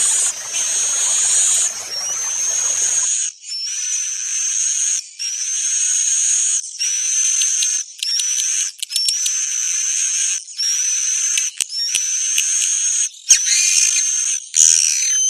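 Bird-lure recording of a songbird's call: a high whistled note that rises in pitch, repeated about every second and a half. Near the end comes a busier, chattering phrase.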